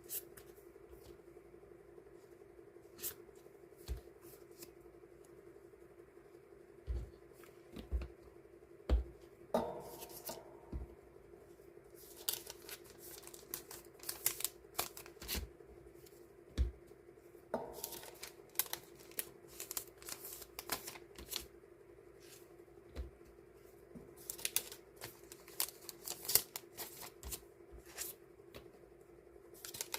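Hands handling and sorting paper die-cut stickers and plastic packing sleeves: irregular rustling and crinkling with light taps on a desk, busier in the second half, over a steady low hum.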